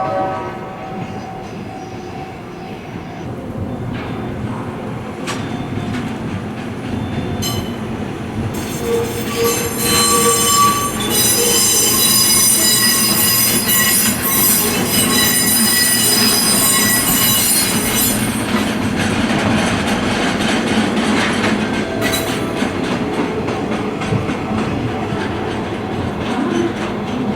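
Freight train moving slowly over station track with a steady rumble, its wheels squealing in high, shrill tones for about ten seconds in the middle.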